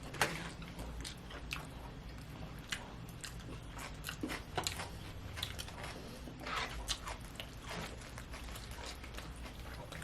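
People chewing and biting food close to the microphone, with small wet, crunchy mouth sounds scattered through, over a low steady hum.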